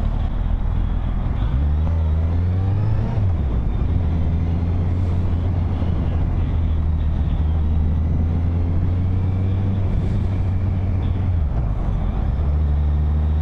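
Kawasaki Z800 inline-four motorcycle engine under way. Its pitch rises as it accelerates, drops at a gear change about three seconds in, then holds steady while cruising, with a brief dip near the end.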